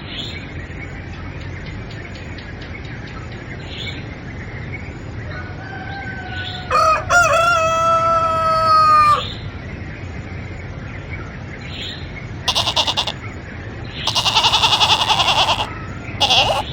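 A rooster crowing once, one long crow of about two seconds, over a steady background hiss, followed later by several short harsh rasping bursts.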